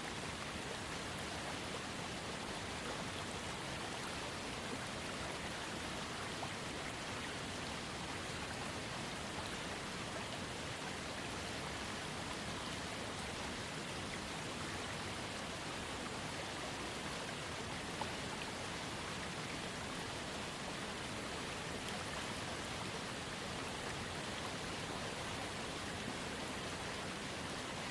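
Waterfall fed by a trickling creek, water splashing and running with a steady, even rush.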